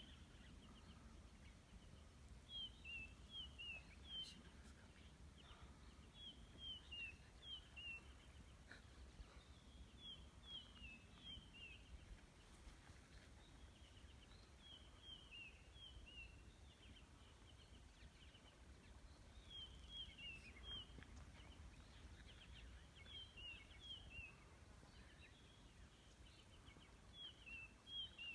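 A bird singing, faint: a short phrase of quick falling notes, repeated about every four seconds, over a low steady rumble.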